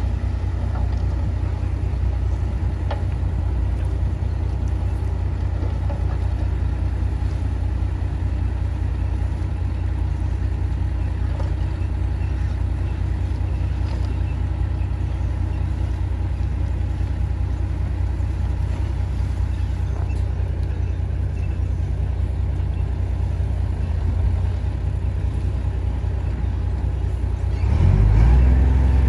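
Heavy diesel earthmoving machine running with a steady low rumble. Near the end its engine gets louder, as it takes on load or revs up.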